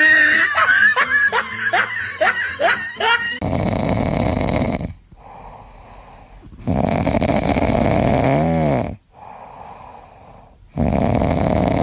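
An animal snoring loudly in long, rasping breaths, three of them spaced a few seconds apart. The snoring is preceded by about three seconds of rapid, high, gliding calls.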